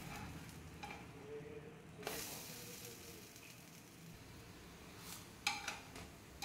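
Lentil patties (dal tikkis) sizzling faintly in shallow oil in a non-stick pan on a low flame. Near the end, a metal spatula clicks and scrapes against the pan a few times as it pushes the patties together.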